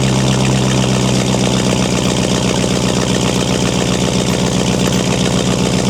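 Dodge Durango R/T's 5.7-litre Hemi V8, with a resonator-delete exhaust, idling steadily with an even low pulse, shortly after a cold start.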